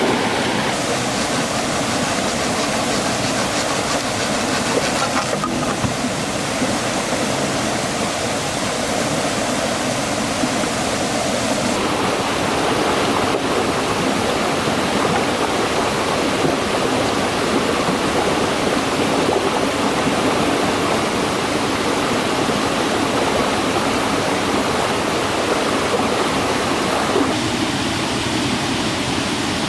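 Loud, steady rush of stream water falling over rocks, its tone shifting abruptly about twelve seconds in and again near the end.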